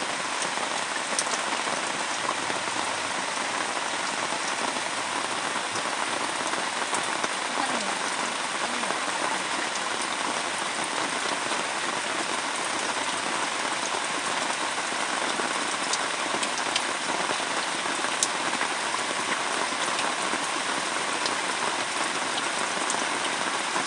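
Steady rain falling, an even hiss that holds without a break, with a few sharp drip ticks here and there.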